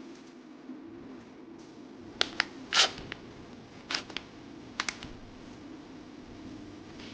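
Blind-bag packaging being handled and opened: a few sharp clicks and snaps, with a short ripping rustle, the loudest sound, just under three seconds in, over a steady low hum.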